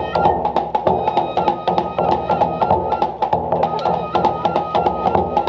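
Traditional Japanese kagura music: quick, steady drum and wood-block-like strokes under a few high held tones.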